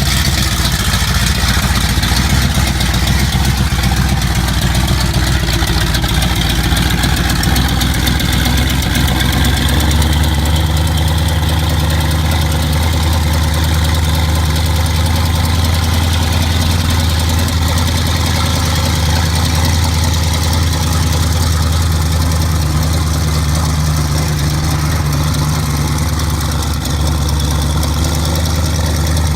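Cammed 408 cubic-inch Ford FE V8 drag-racing engine idling loudly while warming up after a cold start. About ten seconds in the idle note shifts up a little, then holds steady.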